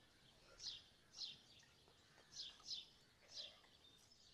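A small bird calling: short, high chirps, each sliding down in pitch, five of them at uneven gaps of about half a second to a second, over a faint background hiss.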